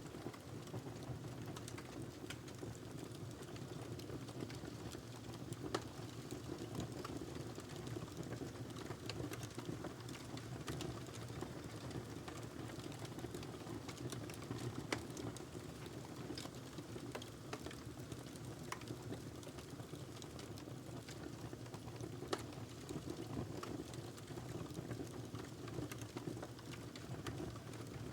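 Wood fire burning in a fireplace: a steady low rush of flame with irregular crackles, and a few sharper pops about 6, 15 and 22 seconds in.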